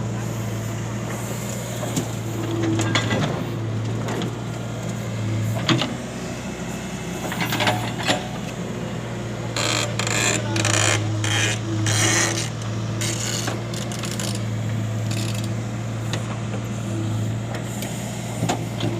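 A vehicle engine running steadily at a constant low drone. Scattered clicks and knocks sit over it, and a run of short hissing bursts comes about halfway through.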